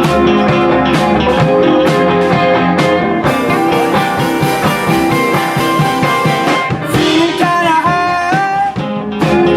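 Live rock band playing a guitar-led song with drums, in a psychedelic blues-rock style. A note slides up and down about eight seconds in.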